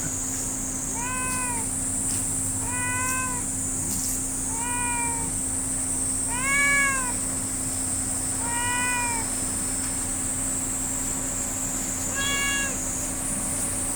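A domestic cat meowing repeatedly: six short meows that rise and fall in pitch, about two seconds apart, with a longer pause before the last one. A steady high hiss runs underneath.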